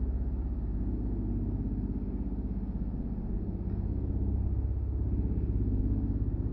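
A steady low rumble that swells slightly a few seconds in.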